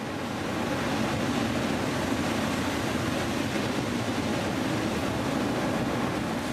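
Steady, even rushing noise with no distinct events, fading in just before and running unbroken.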